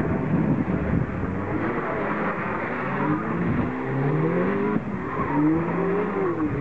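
Toyota Starlet hatchback's engine revving up and dropping back repeatedly as the car is hustled around tight markers, with a steep climb in revs a few seconds in and another rise and fall near the end.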